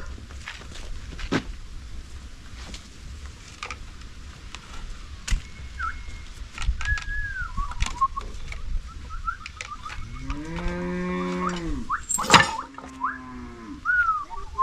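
A bull mooing once: one long, low call about ten seconds in. Short bird chirps and scattered sharp clicks come before and after it.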